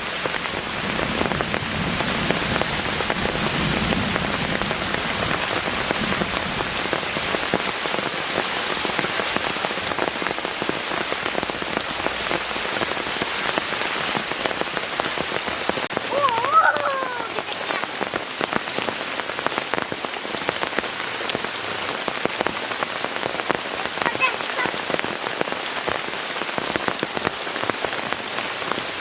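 Heavy rain falling steadily, dense drops striking a surface. A little over halfway through, a brief call sliding up and down in pitch rises above the rain.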